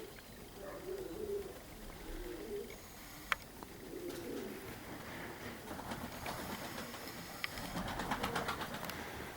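Domestic pigeons cooing in a run of low, repeated calls. A sharp click comes a little over three seconds in, and a dense crackling rustle builds through the second half.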